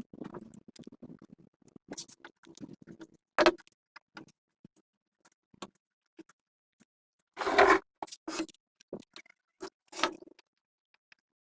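Scattered light clicks and scrapes of small parts and tools being handled, with three louder scraping knocks about three and a half, seven and a half and ten seconds in.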